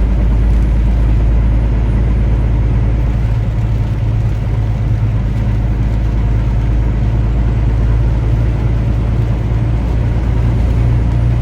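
Truck engine and road noise heard from inside the cab while driving: a steady, low drone.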